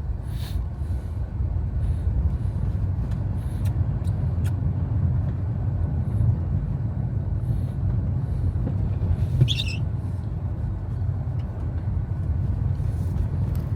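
Steady low road and tyre rumble inside a moving Tesla Model S, an electric car with no engine note, with a short high-pitched squeak about nine seconds in.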